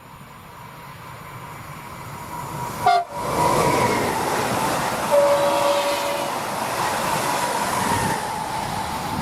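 Stadler Flirt electric multiple unit approaching and passing at speed, its rolling noise growing louder, then staying loud as it goes by with a steady whine. Its horn sounds once about five seconds in, for about a second.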